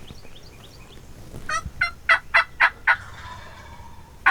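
Osceola wild turkey gobbler gobbling: a loud, rapid rattling string of notes starting about a second and a half in and lasting about a second and a half.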